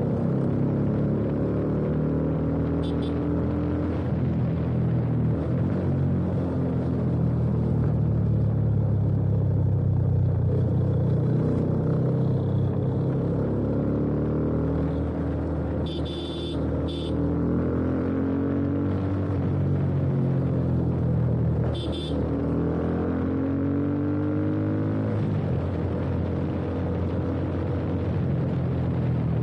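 Yamaha FZ25's single-cylinder engine through an aftermarket slip-on exhaust while riding, its pitch rising and falling again and again as the bike accelerates, shifts and backs off. A few brief sharp sounds come about halfway through and again a few seconds later.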